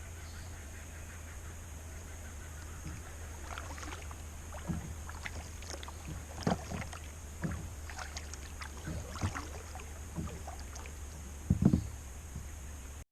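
Kayak paddle working calm water: irregular splashes and drips as the blades dip in and lift out, with a louder splash or knock near the end.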